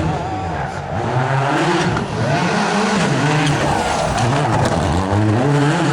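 Rally car driven hard on a special stage, its engine revving up and dropping back several times as the driver changes gear and lifts.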